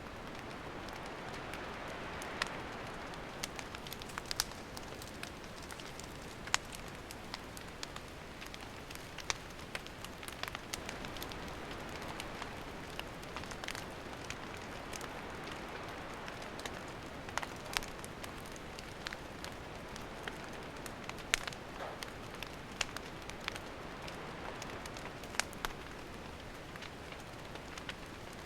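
Wood campfire burning: a steady soft hiss with irregular sharp crackles and pops from the firewood.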